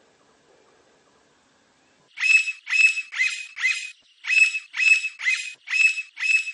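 Blond-crested woodpecker calling: a run of short, loud, ringing notes at about two and a half a second. The run starts about two seconds in and breaks briefly in the middle.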